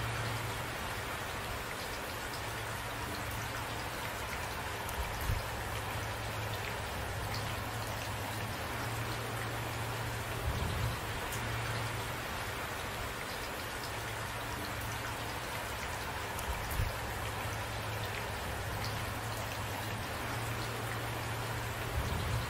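Steady rain falling, with a few brief louder drops about every five to six seconds.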